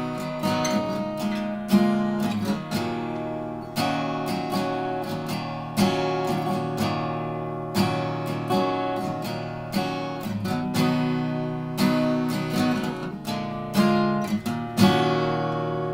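Seagull Entourage acoustic guitar with a solid spruce top, strummed chords in a steady rhythm, with an accented strum about every second and the chords changing as it goes.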